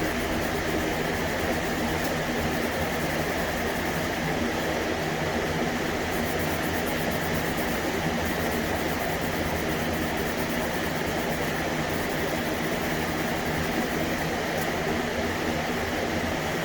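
Steady machine hum with a constant rushing noise, unchanging throughout, like a running fan or ventilation unit.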